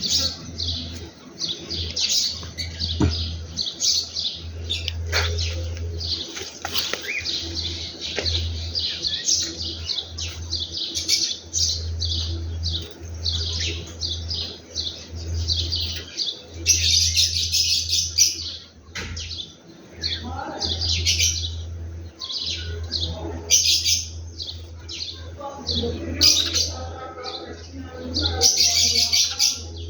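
Small birds chirping and twittering without pause, many quick calls overlapping, with louder flurries now and then, over a steady low hum.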